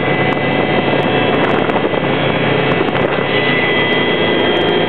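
Helicopter in flight heard from inside the cabin: loud, steady rotor and engine noise with a constant high whine.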